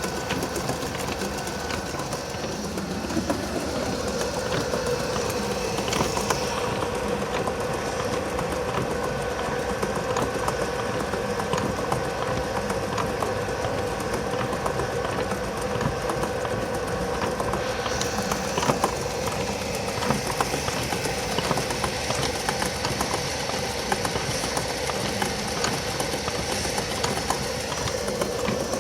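Restored antique wooden washing machine running, its mechanical agitator driven by a high-speed electric motor: a fast, steady mechanical clatter over a constant motor hum.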